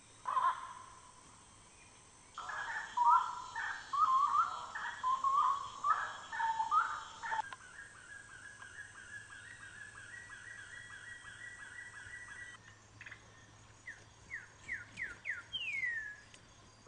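Wild birds calling in several spliced stretches: loud warbling calls, then a fast, even run of repeated notes, and near the end a handful of falling whistles.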